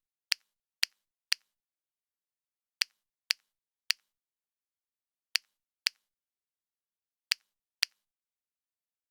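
Ten short, sharp clicks in a row, mostly in pairs or threes about half a second apart, with silence between them.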